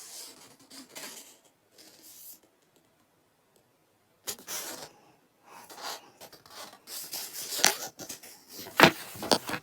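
Close rubbing and scratching of things being handled, with a few sharp clicks, broken by a quiet gap of about two seconds partway through.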